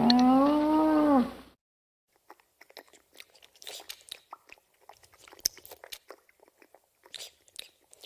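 A moose's long, loud bellowing call, dipping and then rising in pitch, cuts off about a second and a half in. After a short gap come faint, irregular slurping clicks of koi gulping at the water surface as they crowd together to feed.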